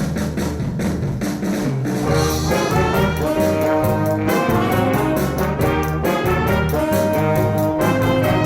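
Jazz band playing, with trumpets and trombones carrying the melody over a steady bass line.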